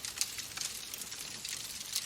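Wood fire burning in a fireplace: a steady hiss with scattered sharp crackles and pops.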